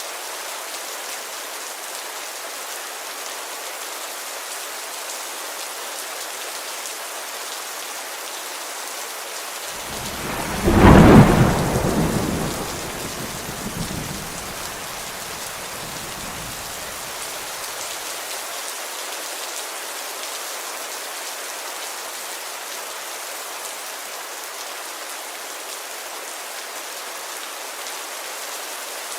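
Steady rain on a window. About ten seconds in, a loud thunderclap breaks and rumbles away over several seconds.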